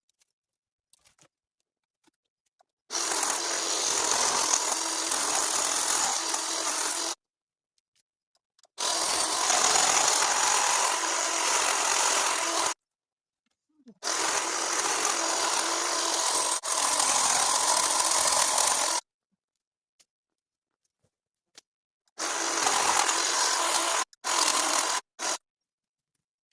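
A power cutting tool, a hedge trimmer or mini chainsaw, running in three bursts of four to five seconds each with near silence between, then a few shorter bursts near the end.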